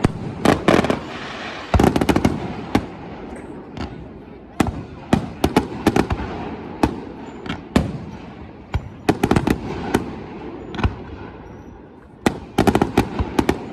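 Fireworks going off: clusters of sharp bangs and crackles come every second or two, each echoing away, with the densest volleys near the start and near the end.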